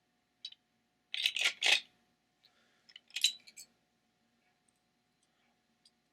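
Lego Duplo plastic pieces clattering and clicking together as they are handled, in two short bursts: one a little over a second in, another about three seconds in, then a few faint ticks.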